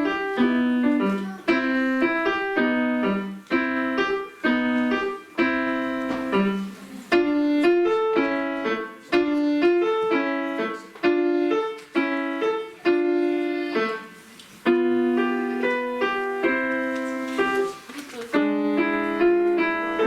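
Solo piano piece played in short phrases, each separated by a brief break.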